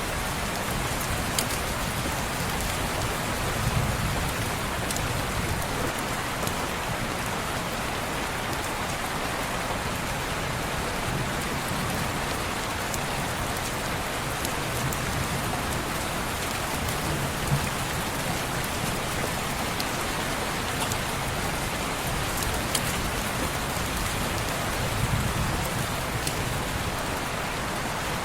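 Steady rain on window glass, an even hiss with scattered sharp ticks and a few soft low thumps.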